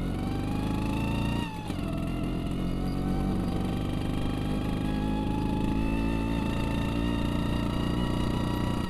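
Vespa scooter engine pulling uphill under throttle: its pitch climbs, drops briefly about a second and a half in as the throttle eases, then rises slowly and steadily.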